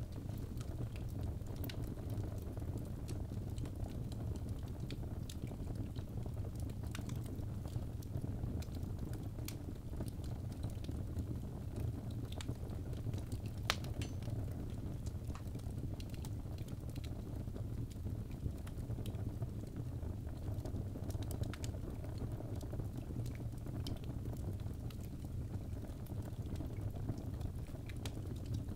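Birch logs burning in a fireplace: a steady low rush of flames with scattered sharp crackles and pops, one louder pop about halfway through.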